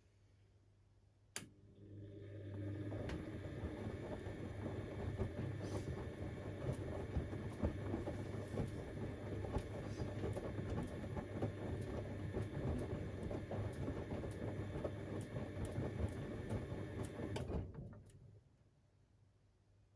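Siemens Extraklasse XLs 140 A washing machine turning its drum during the wash: a click about a second in, then the motor starts and runs steadily with a low hum, a faint whine and a busy patter of small knocks from the laundry tumbling, and stops near the end.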